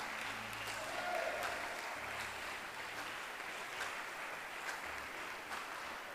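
Congregation applauding, a steady wash of hand claps with scattered sharper claps standing out.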